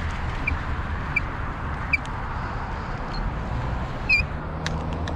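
Wind rushing over the camera microphone and a low rumble from a moving bicycle, with short high squeaks three times early on and a louder one about four seconds in.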